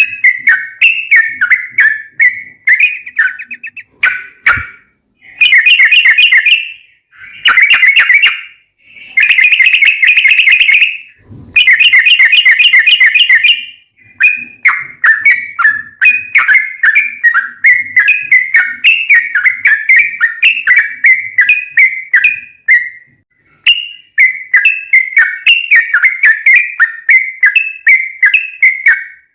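Yellow-vented bulbul (trucukan) singing a long, rapid chattering song of quickly repeated notes. It comes in extended phrases with brief pauses between them.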